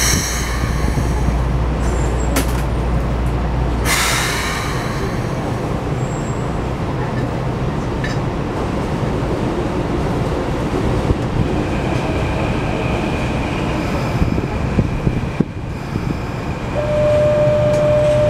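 Keikyu 600 series commuter train standing at a platform with its doors open: steady equipment hum, with a short hiss of air about four seconds in. Another train runs in on the next track, and a steady high tone starts near the end.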